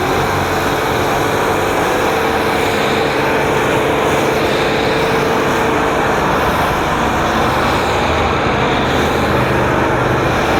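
Electric high-pressure washer running steadily and spraying foam through a foam cannon: a loud, even hiss of spray over the pump motor's hum, with a faint steady whine for a few seconds.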